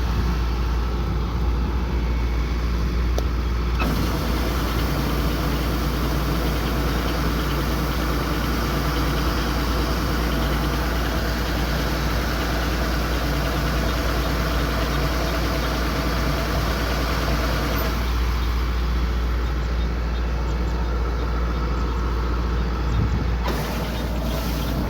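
Kubota combine harvester running steadily, with a deep engine hum under a dense mechanical clatter. Its sound changes abruptly a few seconds in, again later, and once more near the end.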